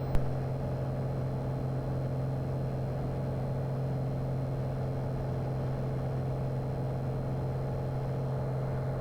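Light aircraft's piston engine running steadily in the climb, heard from the cockpit as an even, unchanging low drone.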